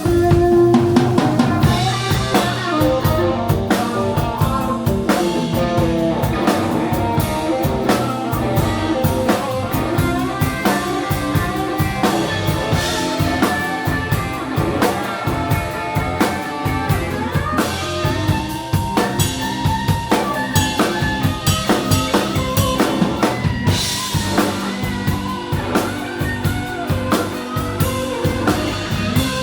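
Live rock band playing loudly, with the drum kit to the fore (kick drum, snare and rimshots on a steady beat) under pitched instrument lines.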